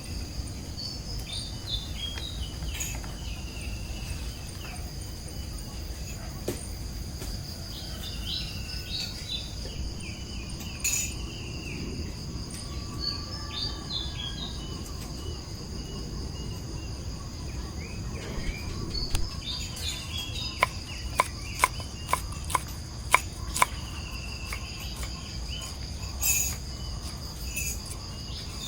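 Crickets and other insects trilling steadily in the background, with birds calling in short descending chirps again and again. About two-thirds of the way in, a quick run of sharp clicks or taps stands out as the loudest sound.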